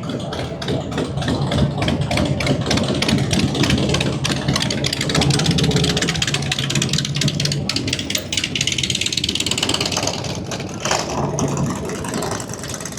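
Motorcycle engine running loud and close, a steady low drone with rapid exhaust pulses, dropping away near the end.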